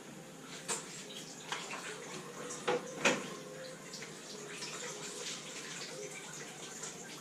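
Workshop sounds of work on a classic Mini: a few sharp clicks and knocks of tools or metal parts, the loudest two close together about three seconds in, over a steady hiss.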